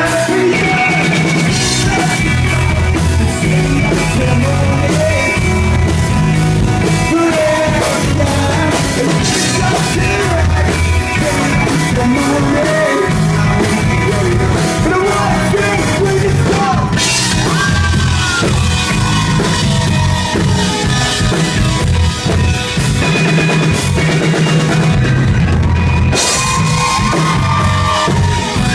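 Live rock band playing: drum kit, guitar and bass driving a steady beat, with a singer's voice over the top.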